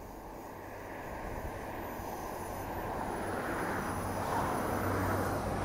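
Diesel multiple unit passenger train approaching, its low engine hum and running noise growing steadily louder as it nears.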